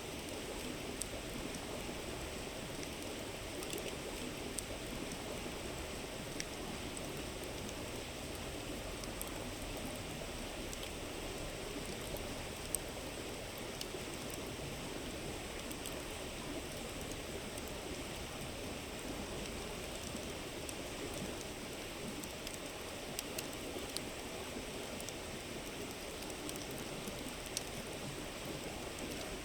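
Steady murmur of a flowing river with a bonfire crackling, scattered sharp pops over the constant rush of water.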